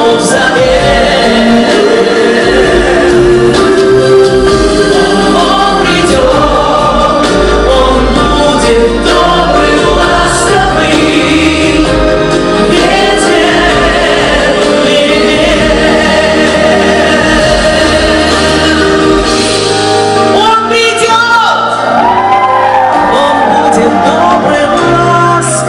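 Live pop performance: a group of voices singing together over band accompaniment with a steady bass. From about 20 seconds in, a solo voice sings ornamented runs with wide vibrato above the group.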